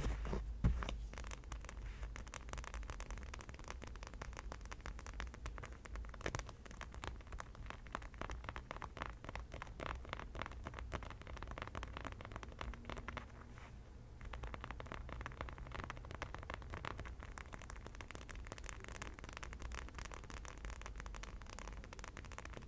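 Fast, continuous tapping and scratching on an object, a dense stream of small clicks that eases briefly about halfway through.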